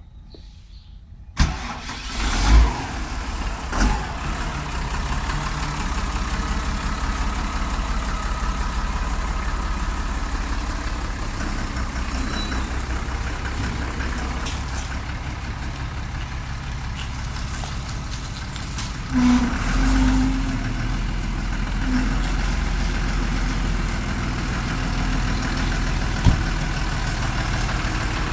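Same Silver 130 tractor's diesel engine starting about a second in, then running steadily at idle, with a deeper, stronger rumble from about two-thirds of the way through.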